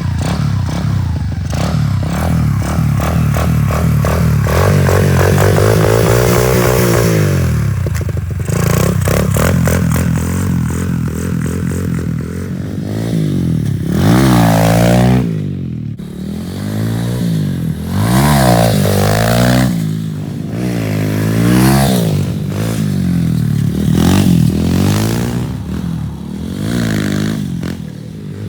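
Pit bike engine being ridden hard, revving up and dropping back over and over, its pitch rising and falling many times in quick succession in the second half.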